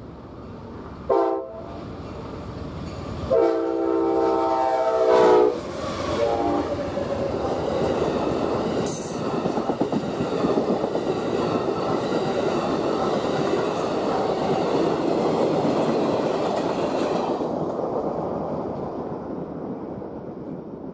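Amtrak Southwest Chief passenger train passing: the locomotive's multi-tone air horn sounds a short blast about a second in, a longer one a couple of seconds later and a brief toot around six seconds. Then comes the steady rumble and clickety-clack of the train's wheels on the rails, fading away near the end.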